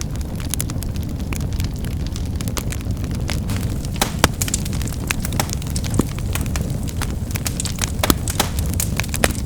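Wood fire burning with a steady low rumble and frequent sharp crackles and pops, a few louder pops standing out around the middle and near the end.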